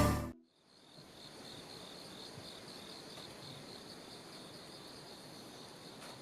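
Music cuts off just after the start. From about a second in there is faint outdoor ambience of insects chirping in a steady, high, pulsing trill.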